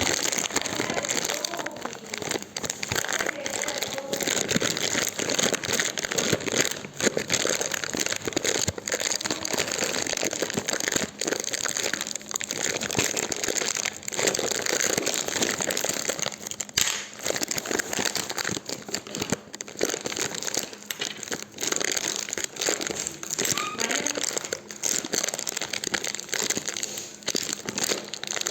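Campfire crackling steadily, a dense run of small snaps and pops.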